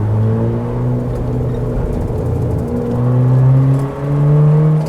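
Car engine accelerating, its revs climbing, dropping back at a gear change about three seconds in, then climbing again.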